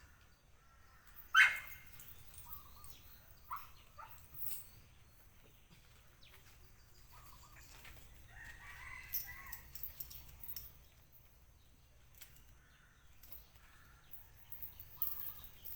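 A rooster crowing, with a loud, brief sharp sound about a second and a half in and scattered small sounds around it.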